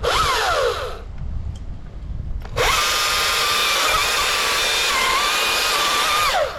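Battery-powered chainsaw: a short blip of the motor that winds down within a second, then, from about two and a half seconds in, about four seconds of steady high whine with its pitch shifting slightly, winding down near the end.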